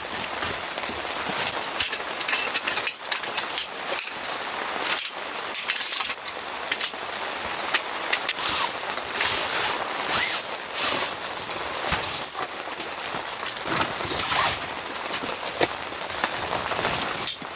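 Steady rain falling on a surface, with many short, sharp taps and clicks throughout.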